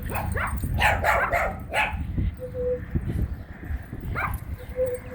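Dogs barking and yipping: a quick run of several barks in the first two seconds, then a single bark about four seconds in.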